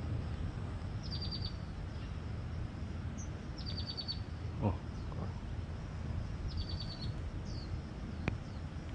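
A bird calling three times, each call a quick run of high notes, over a steady low rumble.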